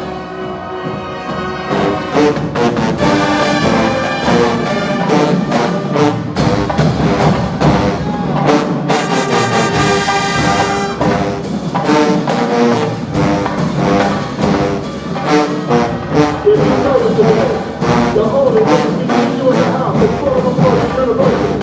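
Show-style marching band playing a medley: massed trombones and trumpets with a drumline keeping a steady beat, loud throughout.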